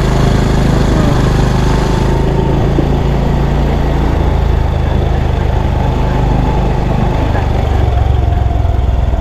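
Motorcycle engine running steadily, changing note about seven seconds in.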